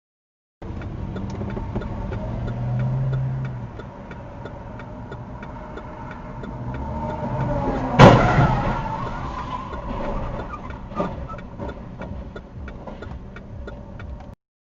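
Car driving with engine and road noise and a faint regular ticking, then a loud sudden crash about eight seconds in, a collision impact with a crunching smear after it and a few smaller knocks a few seconds later.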